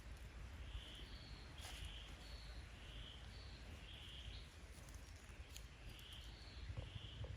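A bird giving a short, high call over and over, about once a second, over a low steady rumble.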